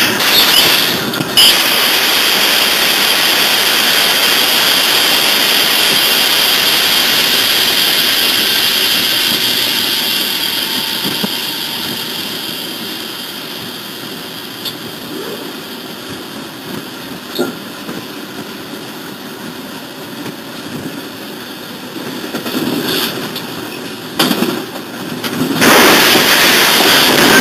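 Train running along the track heard from the locomotive cab, a loud rushing noise that fades over the first half. Near the end a loud crash and grinding as it collides with an oncoming locomotive.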